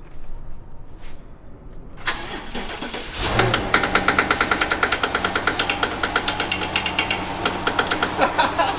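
BMW 750i's N63 twin-turbo V8 cranking on the starter about two seconds in and catching a second later, then idling with a rapid, even ticking pulse. It is the engine's first start after the front-end crash repair.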